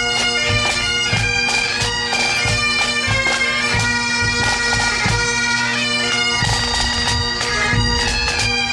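Great Highland bagpipes playing a tune on the chanter over steady drones, with a low thump about twice a second underneath.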